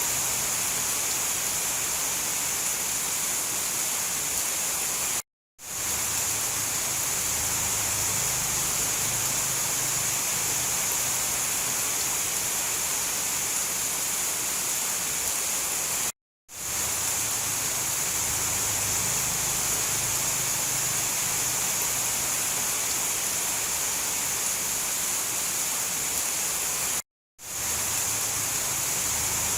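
Steady, dense rain hiss from a looped rain ambience recording. It cuts out to silence for a split second three times, about eleven seconds apart, and fades back in each time.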